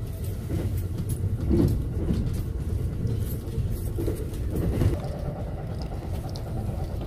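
Steady low rumble of a moving train, heard from inside the passenger car.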